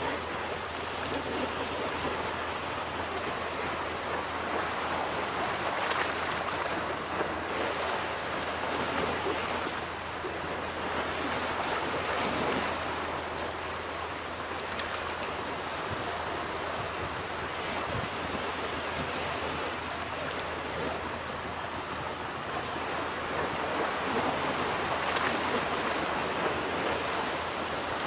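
Ocean surf washing onto a beach, a steady rush of breaking waves that swells and eases every few seconds.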